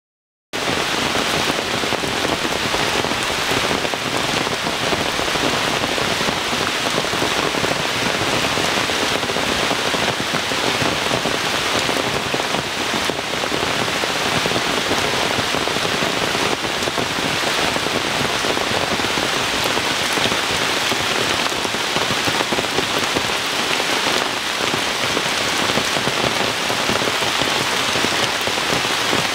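Steady rain falling on forest leaves and undergrowth, a dense even hiss that starts about half a second in.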